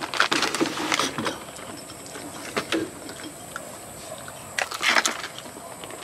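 Close-up crunching and chewing of crispy fried mushroom chicharon, a dense crackle through the first second and another burst of crunching about five seconds in.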